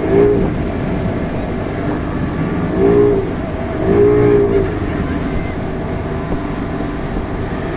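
Motorboat engine running steadily under way, towing a banana boat. It has three short, louder pitched swells that rise and fall: one at the start, one about three seconds in, and one about four seconds in.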